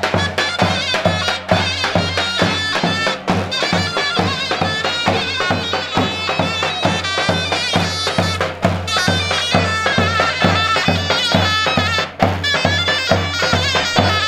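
Traditional folk music played loud: a shrill reed pipe carries a wavering melody over a steady, evenly pulsing drum beat.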